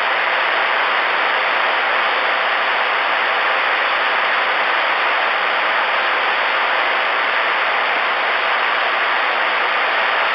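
Steady static hiss from the speaker of a Stryker SR-447HPC ten-meter radio: band noise with nobody transmitting on the channel.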